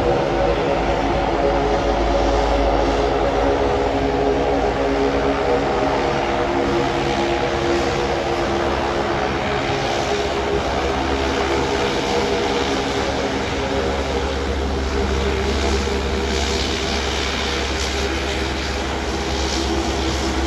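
Propeller aircraft engines running with a steady, loud drone of several pitched tones that sink slightly in pitch.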